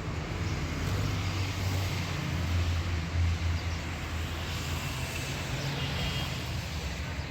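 Car running along a road: a steady low engine and road rumble that swells a little a few seconds in.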